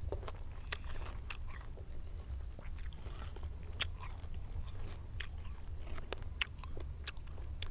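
Close-up chewing of crisp raw guava dipped in chili salt: a string of irregular sharp crunches, over a steady low rumble.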